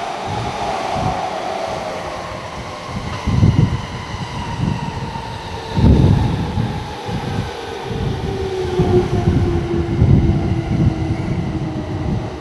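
Joban Line electric commuter train running past at close range: a steady motor whine falls in pitch as the train slows, over rolling rail noise and irregular low thumps.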